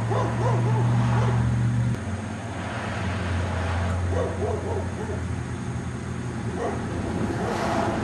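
A dog barking in short yaps, a few in a quick run near the start and again about four seconds in, over a steady low hum that shifts pitch about two seconds in.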